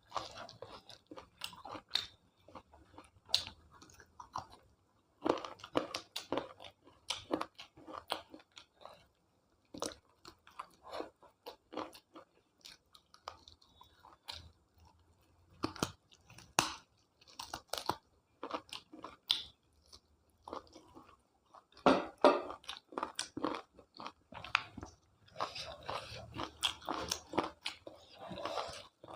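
Close-up eating sounds: irregular chewing, biting and crunching with wet mouth smacks, the sound of someone working through a chicken leg curry meal.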